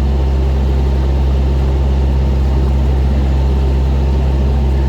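Boat engine running steadily under heavy power, a constant low drone.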